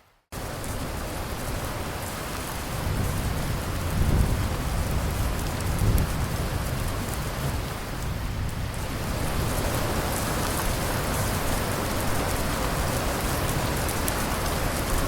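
Steady rain falling, with a low roll of thunder a few seconds in that swells twice before fading back into the rain. The sound cuts out for a moment at the very start.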